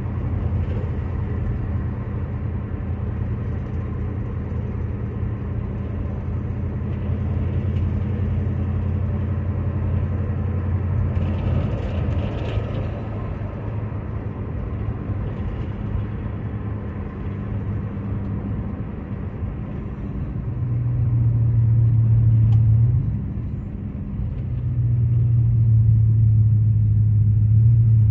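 A classic car's engine heard from inside the cabin while driving, running steadily. About two-thirds of the way through its note steps up and gets louder, drops back briefly, then rises again.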